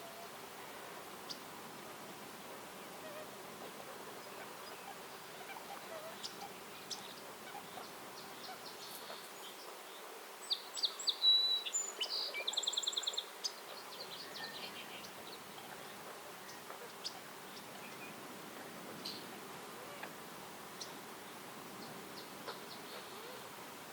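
Forest birds chirping sparsely over a steady faint background hiss, with a brief louder burst of song about halfway through that ends in a rapid trill.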